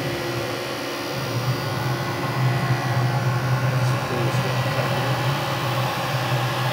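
Porsche BN4 petrol-burning heater running on a bench test: a steady hum of its blower and burner as it warms up.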